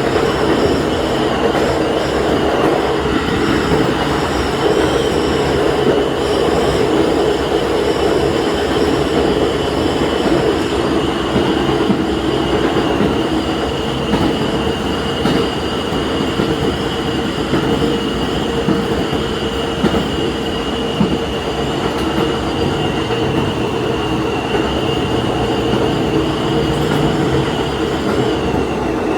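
Diesel railcar running along the track, heard from inside the train: steady engine and rail running noise with a thin, high whine held throughout.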